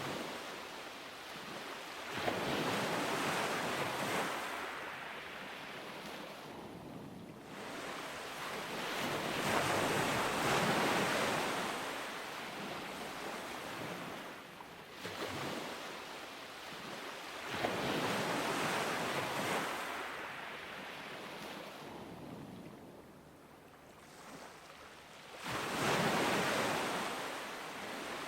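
Ocean surf: waves break and wash up the beach in about five swells, each rising and fading over a few seconds, with a softer hiss of water between them.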